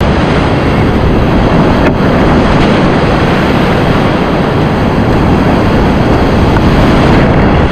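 Loud, steady rush of whitewater in a mountain river.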